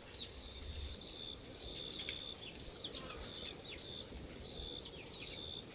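Insects trilling steadily at a high pitch, with short chirps repeating about once a second and a couple of sharp clicks.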